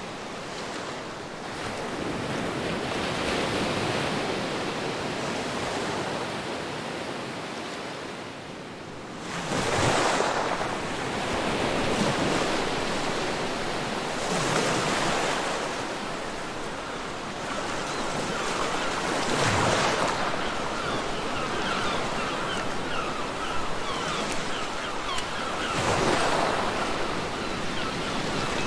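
Ocean waves breaking on a beach, over a steady wash of surf. A louder wave surges in about every five seconds.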